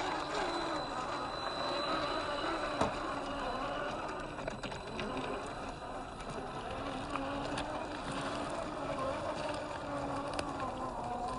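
Electric motor and geared drivetrain of a 1/10-scale RC crawler whining, the pitch wavering up and down with the throttle, with scattered small clicks and crunches of the tyres on dirt and stones.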